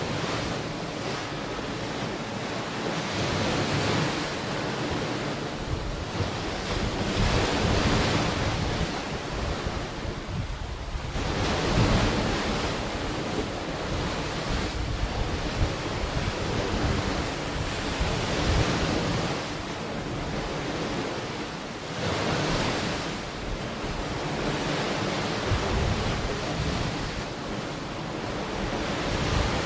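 Ocean waves breaking and washing up a beach, the surf swelling and easing every few seconds, with wind buffeting the microphone.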